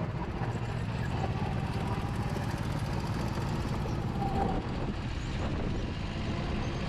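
Go-kart's small engine running steadily under way, mixed with wind rumbling on the microphone.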